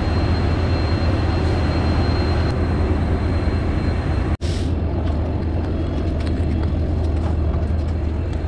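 Moving passenger train heard from inside the coach: a steady, loud running rumble. The sound breaks off for an instant a little over four seconds in.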